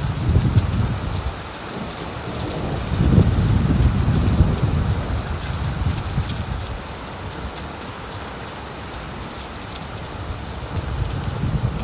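Heavy rain drumming steadily on a tin roof, with deep thunder rumbling: a short rumble at the start, a longer, louder one about three seconds in that fades over a few seconds, and another building near the end.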